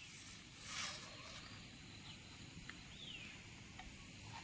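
Faint rural outdoor ambience with a few short chirps that fall in pitch, like distant bird calls, and a brief rustling hiss about a second in.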